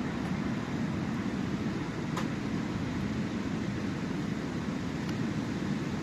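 Sea waves on the shore: a steady low rumble of surf.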